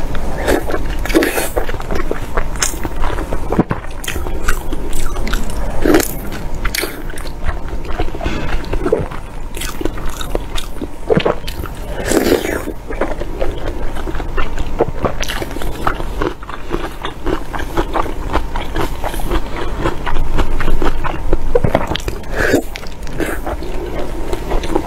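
Close-miked biting and chewing of braised pork-skin rolls, with irregular smacking mouth sounds and short clicks throughout.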